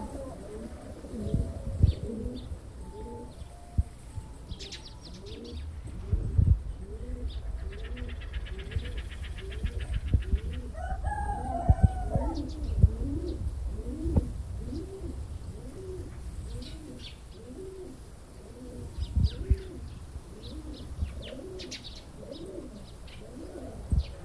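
Racing pigeon cock birds cooing, many short coos overlapping, with scattered low knocks and thumps.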